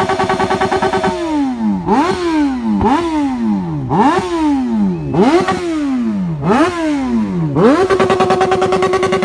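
Yamaha XJ6's inline-four engine and exhaust idling steadily, then blipped about seven times in quick succession, each rev climbing sharply and falling back, before settling back to idle near the end.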